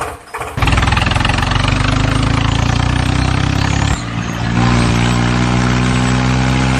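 The DIY mini tractor's motor running steadily with a rattling drone. About four seconds in it dips briefly, then settles at a slightly different, steadier pitch.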